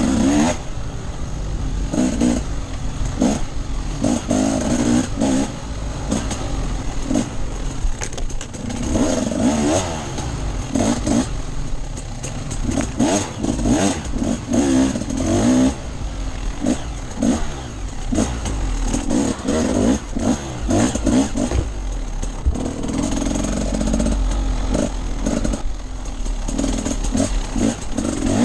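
Enduro motorcycle engine being ridden hard off-road, the throttle opened and closed again and again so the revs rise and fall every second or two, with some clatter.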